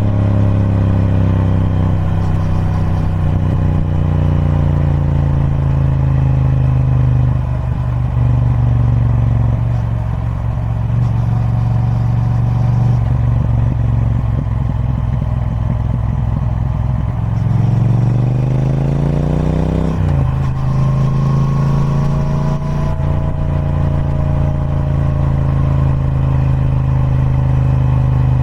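Triumph Speed Twin 1200's 1200cc parallel-twin engine through its stock exhaust, pulling along under way. Its note eases down for the first several seconds and sits low for a while, then rises under acceleration and breaks off sharply about twenty seconds in, like a gear change, before running steady again.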